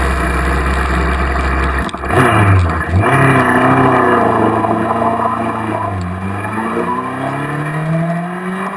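Honda CBR1000RR superbike's inline-four engine running. About two seconds in it revs up with the pitch swinging up and down, then climbs steadily in pitch as the bike accelerates near the end.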